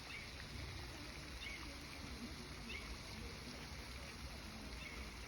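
Quiet outdoor background: a steady, even hiss, with a faint short high chirp repeating about every second or so.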